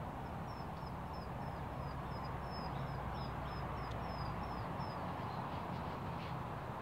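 Outdoor background noise with a steady low rumble, over which a small bird sings a quick run of short, high, falling chirps, about three a second, stopping about four and a half seconds in.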